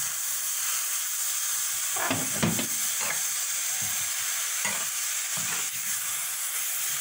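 Chicken cubes sizzling in hot oil in a steel kadhai, a steady high hiss, while a metal spoon stirs and scrapes against the pan several times from about two seconds in.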